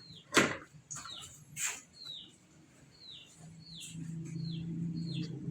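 Chicken peeping repeatedly: short high calls that fall in pitch, about one every half second to second. There are a few sharp knocks or rustles in the first two seconds, the loudest about half a second in, and a low steady hum starts about three and a half seconds in.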